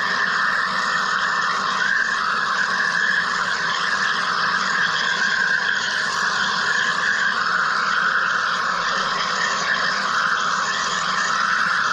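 Wire EDM machine running: a steady, even hiss that is strongest in the middle range and does not change.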